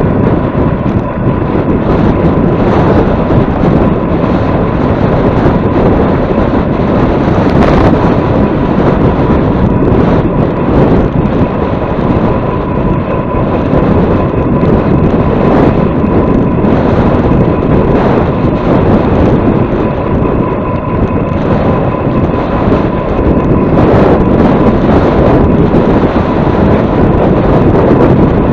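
Strong wind buffeting the microphone in a loud, gusty rumble while riding into a headwind, with a thin steady whine underneath.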